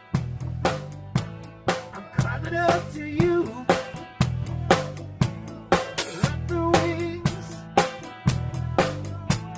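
Rock music with a full drum kit keeping a steady beat, a bass line underneath and an electric guitar playing a lead with string bends.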